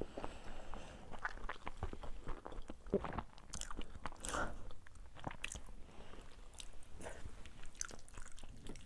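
A person eating close to the microphone: irregular chewing and biting, with soft crunches and wet clicks.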